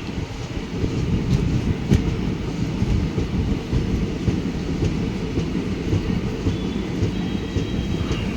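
Goods train hauled by a WAG-9 electric locomotive rolling past, a loud steady rumble of wheels on the rails with a few sharp clicks.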